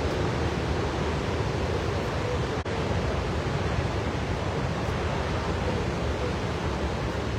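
Steady roar of Victoria Falls, the rushing noise of the falling water and its spray, broken once by a brief drop-out about two and a half seconds in.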